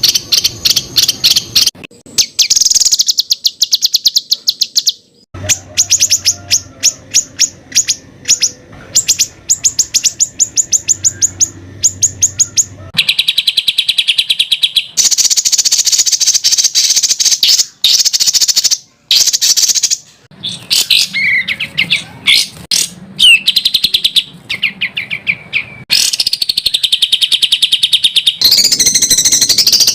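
Songbird masteran recording: dense, rapid-fire runs of sharp repeated high notes (the 'tembakan' phrases), in spliced segments that start and stop abruptly, with some sweeping whistled notes in the second half.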